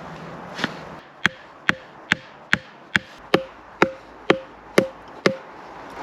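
A tool striking wood in a steady rhythm, about two blows a second, roughly ten sharp knocks in a row after a lighter first tap. Each knock leaves a brief ringing note.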